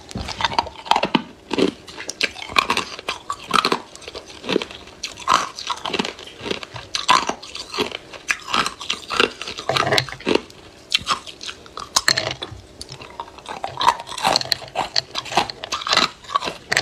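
Close-up crunching and chewing of hard ice: a steady run of sharp, irregular crunches as the pieces are bitten and ground between the teeth.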